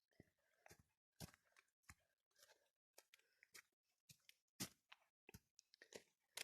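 Near silence, with faint, irregular clicks and light knocks scattered throughout.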